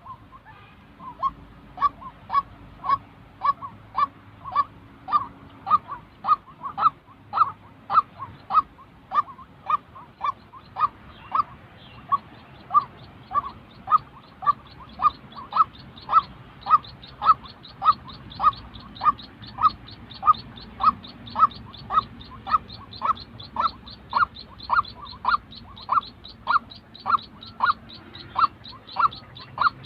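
White-breasted waterhen calling: one short, sharp note repeated steadily about twice a second, beginning about a second in.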